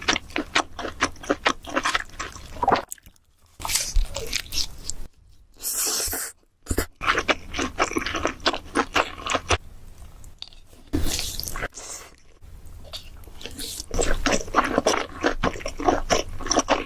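Close-up crunchy eating sounds: rapid crisp bites and chewing of crunchy food, mukbang-style, in several short stretches broken by abrupt cuts.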